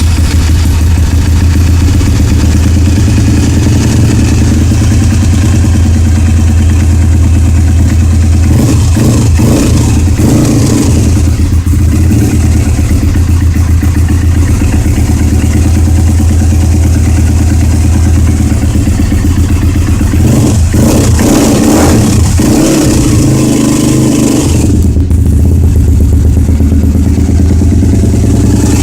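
Honda CRF dirt bike's four-stroke single-cylinder engine catching on a cold start, then running on half choke as it warms up. The revs shift briefly a couple of times.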